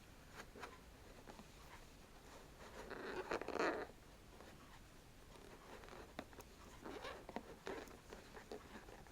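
Scratching and tapping on the rough, scaly skin of a pineapple: scattered light taps and scrapes, with one louder scratching stroke about three seconds in.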